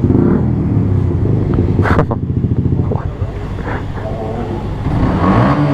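125cc motorcycle engine idling steadily.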